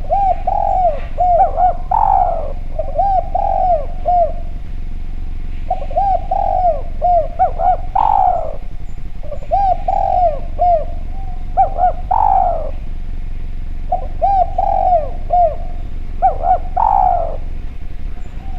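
Spotted dove (derkuku) cooing: four phrases of short rising-and-falling coos, each ending in a longer, falling coo, with a low hum underneath.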